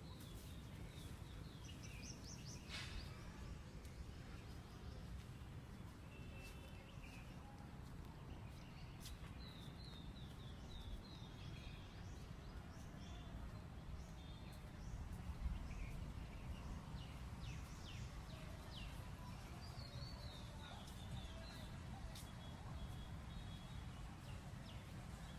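Small birds chirping in short runs of quick, high, falling notes, repeated throughout, over a steady low rumble, with one brief low bump about halfway through.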